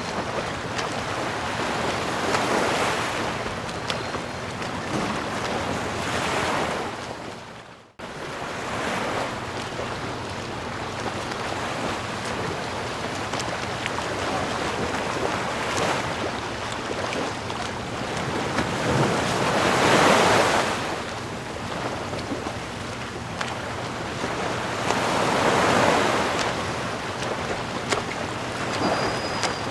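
Ocean waves washing in and drawing back, a steady rush that swells and ebbs every few seconds. About eight seconds in it fades out to near silence and returns at once, as at a loop join.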